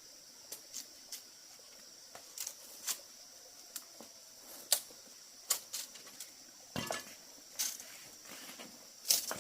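Irregular light clicks and knocks of hard objects being handled, a dozen or so scattered through, the loudest about halfway and near the end, over a steady faint high-pitched hiss.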